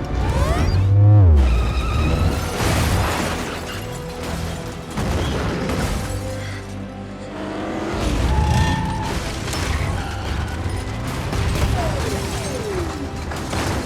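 Action-movie car-chase sound mix: dramatic score over car engines revving and tires squealing, with a heavy low rumble about a second in.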